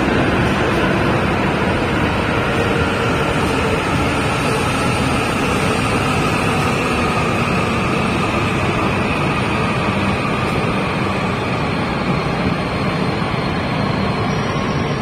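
E5-series Shinkansen coupled to an E6 running slowly along the platform: a steady rumble of wheels on rail with a faint electric whine that shifts slightly in pitch.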